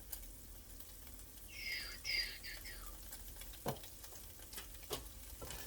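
Chicken sizzling faintly in a frying pan as it is stirred. A few short squeaks come about two seconds in, and two sharp knocks follow later.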